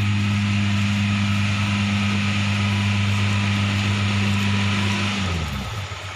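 Vehicle engine held at steady raised revs, then easing off about five seconds in as the revs fall away.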